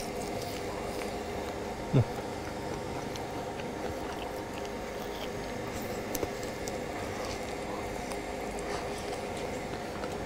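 A person eating a smoked pork rib off the bone, chewing, over a steady low hum. One short, loud pitched sound comes about two seconds in.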